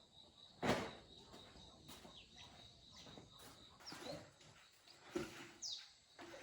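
Faint bird chirps, a few short notes falling in pitch, over a couple of sharp knocks, one about a second in and one near the end.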